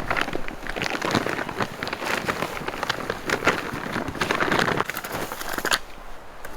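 Dense, irregular rustling and crackling of fermented hay (haylage) from an opened wrapped round bale being pulled apart and handled.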